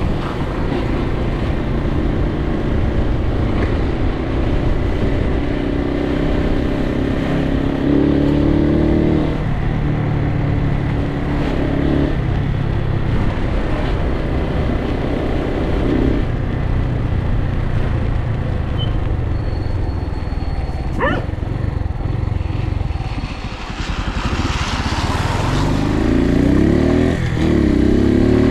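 Suzuki TU250X's single-cylinder engine running as the motorcycle is ridden, its pitch shifting with the throttle and gears and rising near the end as it accelerates, under a steady rush of wind and rain.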